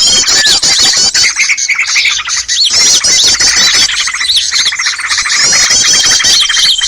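A dense, loud chorus of many small birds chattering and chirping rapidly over one another, with a held high whistle near the end. It is a bird-trapping lure (pikat) recording of noisy small-bird calls, meant to draw small birds in.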